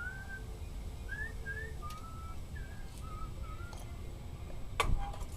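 A series of short whistled notes, several sliding upward, over a low steady rumble, followed by one sharp knock near the end.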